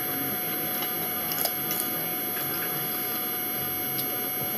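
Soft, wet chewing of a tuna sandwich, with a few faint clicks about a second and a half in, over a steady hiss of room noise.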